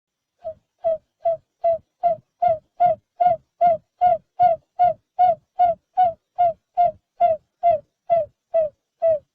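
Barred buttonquail calling: a long, even series of short hooting notes, about two and a half a second, starting soft and growing louder over the first two seconds.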